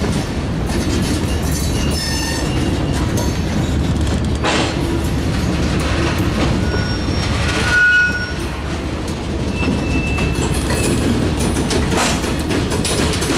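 Loaded covered hopper cars of a cement train rolling through a grade crossing: a steady rumble of steel wheels on rail, with short high wheel squeals, the loudest about 8 seconds in, and a couple of sharp clacks as wheels cross a rail joint.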